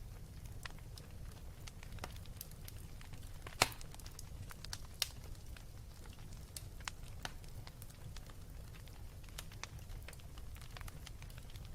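Fire burning with a steady low rumble and scattered sharp crackles and pops, the loudest pop about three and a half seconds in.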